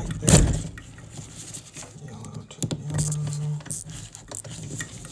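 Handling noise from hands working on furnace wiring: a loud rustling knock about a third of a second in, then light clicks and scrapes of wires and terminals. A short low hum comes around three seconds in.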